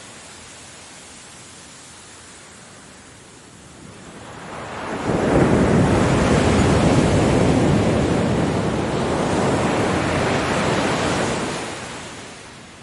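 Ocean waves on a beach: a soft steady wash of surf, then about four seconds in a wave builds and breaks, rushing loudly for several seconds before dying back down near the end.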